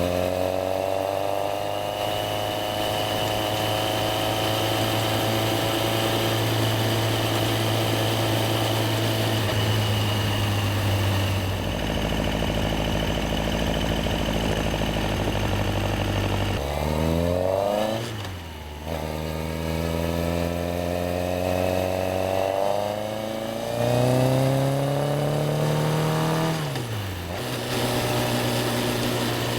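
Yamaha XJR1300's air-cooled inline-four engine running under way at a steady pitch. From a little past halfway it accelerates, rising in pitch, with sharp drops and a brief dip in level at the gear changes. It settles back to a steady cruise near the end.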